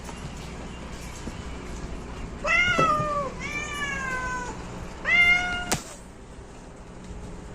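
Domestic cat meowing three times, the second call drawn out and falling in pitch, with a sharp click at the end of the third.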